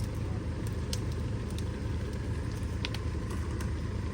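An engine running steadily at idle, a constant low drone, with a few light clicks scattered over it.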